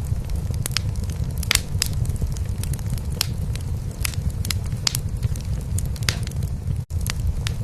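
Domestic cat purring steadily and low, under a wood fire crackling in a fireplace with scattered sharp pops and snaps. All sound cuts out for an instant near the end.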